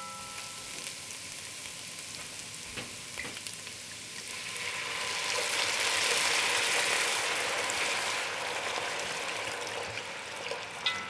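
Diced onion, celery and carrot sizzling in a hot cast-iron Dutch oven while being stirred with a spoon. About four seconds in, red wine poured into the pot makes the sizzle swell louder for a few seconds, then it eases off again.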